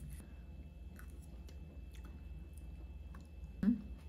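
Soft, close chewing of a mouthful of green grapes and fresh cheese, with a few faint clicks, then a short hummed 'mm' near the end.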